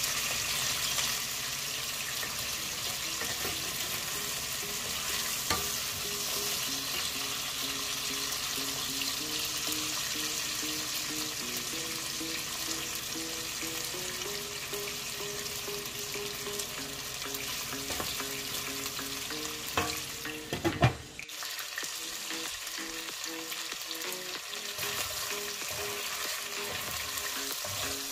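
Food sizzling as it fries in a pan while being stirred, with a few sharp knocks of the spoon against the pan about three-quarters of the way through.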